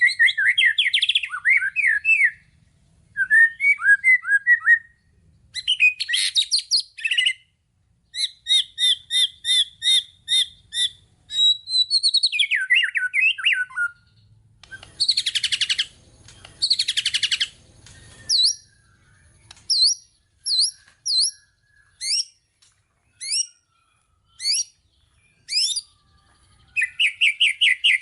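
White-rumped shama (murai batu) singing a long, varied song packed with mimicked phrases. Short phrases of rapid repeated notes, trills and rising and falling whistles alternate with high thin sweeping notes, with brief pauses between phrases.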